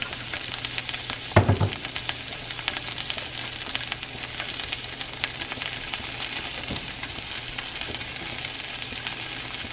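Cut-up sausages frying in butter in a pan: a steady sizzle with constant small crackles and pops. A single thump about a second and a half in.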